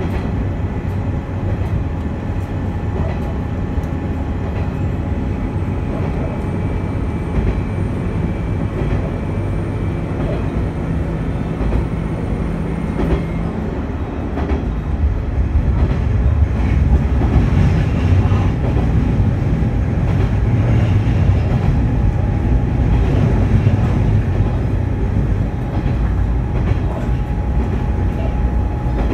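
Diesel railcar running along the line, heard from inside the car: a steady low rumble of engine and wheels with scattered clicks from the rails. About halfway through the rumble grows louder and deeper.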